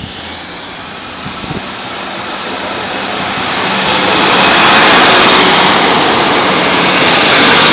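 East Midlands Trains diesel multiple unit passing close over a level crossing, its engine and wheels on the rails making a steady noise with a low hum. The noise builds up as the train approaches and is loudest about five seconds in, as the unit goes by.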